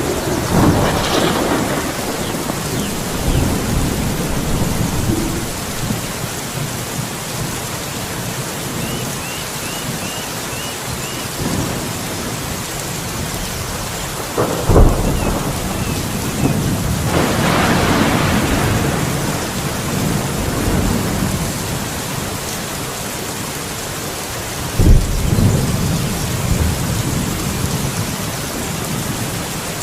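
Steady rain with thunder: sharp thunderclaps about fifteen and twenty-five seconds in are the loudest, with rolling rumbles near the start and around eighteen seconds. A bird gives a short run of faint chirps about nine seconds in.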